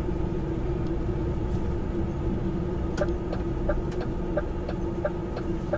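Truck engine running with a steady hum heard inside the cab. About halfway through, the indicator starts ticking in a regular rhythm, roughly one and a half clicks a second.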